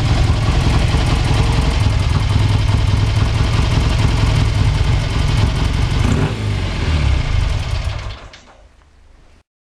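1965 BSA Lightning Rocket's 650 cc parallel-twin engine running with a deep, loud exhaust note, then dying away about eight seconds in.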